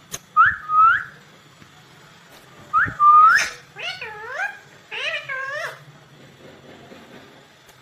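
Green ringneck parrot (rose-ringed parakeet) calling: three short, sharply rising whistled calls, the third the loudest, then two longer wavering calls that dip and rise in pitch.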